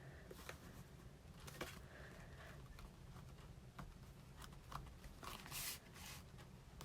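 Faint, scattered taps and rustles of paper and cardstock being handled, with a brief louder rustle about five seconds in.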